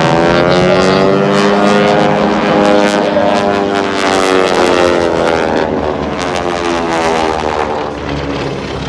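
Formation of propeller aerobatic planes, Aeroshell Aerobatic Team T-6 Texans with radial engines, droning loudly overhead. Their pitch sags and then rises again as they manoeuvre past.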